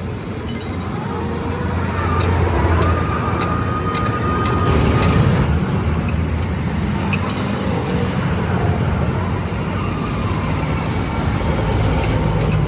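Engine of a heavy road vehicle running with roadside traffic noise, a steady low drone that swells slightly a couple of seconds in. A thin high steady tone sounds over it for about three seconds.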